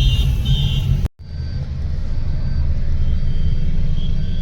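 Road traffic: a heavy, steady low rumble of vehicles, with faint horn-like tones here and there. It drops out for a moment about a second in.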